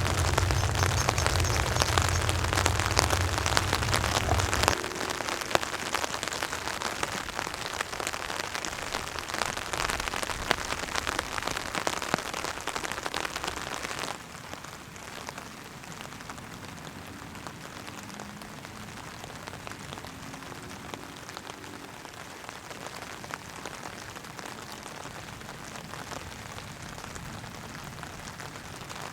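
Heavy rain falling on a tarp, a dense hiss of countless drop ticks, with a low rumble under it for the first five seconds or so. About halfway through the rain abruptly becomes quieter and steadier.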